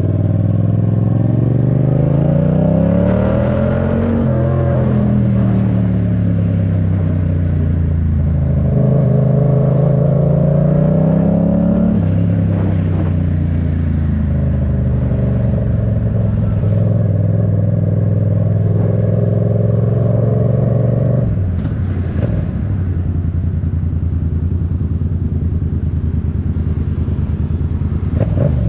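Yamaha MT-07's parallel-twin engine under way, its pitch climbing as it accelerates and dropping back at two gear changes. It then holds a steady note and falls to a lower steady running note about three quarters of the way through.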